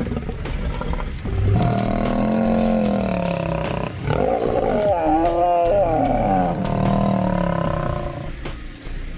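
Male lions snarling at each other in an aggressive standoff: two long, wavering calls, the second starting about four seconds in.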